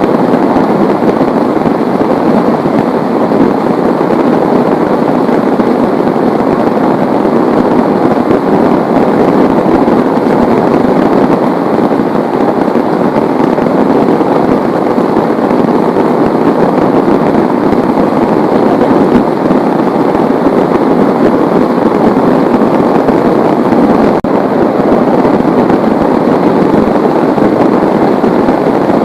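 Heavy rain falling, a loud, dense, unbroken patter.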